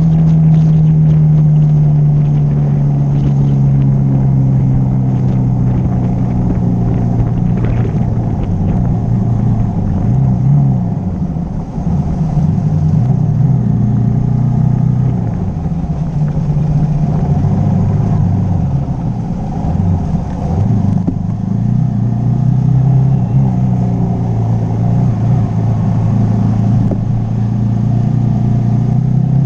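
Hero Xpulse single-cylinder motorcycle engine running at road speed. Its pitch eases down at the start, dips and rises several times through the middle as the throttle changes, and climbs again near the end.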